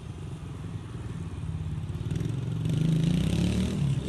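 Dirt bike engine running, getting louder about halfway through as the bike comes closer, its pitch rising and falling.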